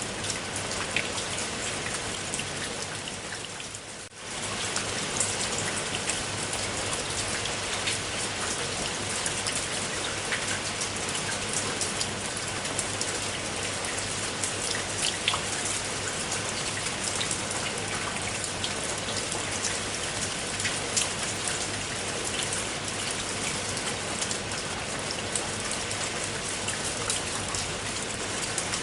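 Steady rain falling, with many individual drops ticking among the even hiss. About four seconds in the sound briefly fades down and then swells straight back.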